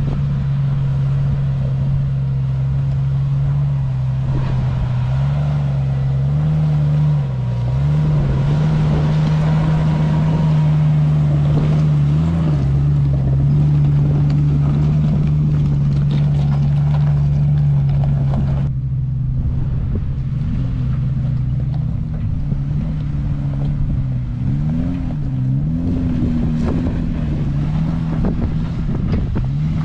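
Jeep engine running at a fairly steady speed while driving, its note dipping and rising slightly, under wind and road hiss. About two-thirds of the way through the hiss drops away and the engine note wavers more.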